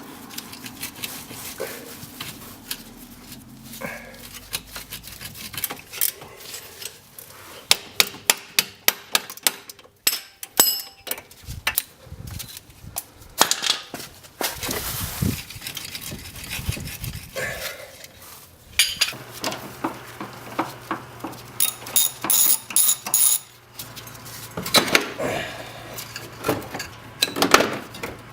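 Repeated metal clanks, clicks and knocks of hand tools on a car's front suspension as a strut is unbolted and pulled out, coming in bursts with short pauses.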